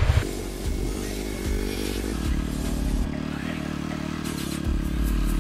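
KTM 390 Adventure's single-cylinder engine, loud at first, then dropping a fraction of a second in to a steady idle.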